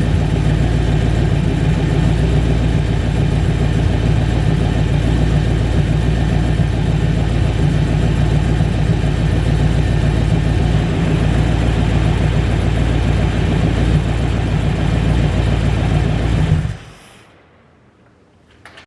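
Small block Chevy V8 running on an engine run stand, a loud steady idle, fed by a Holley carburetor. It stops near the end.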